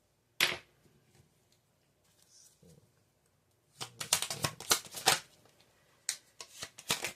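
Tarot cards being shuffled and handled: one sharp snap about half a second in, then quick runs of card clicks from about four seconds and again near the end.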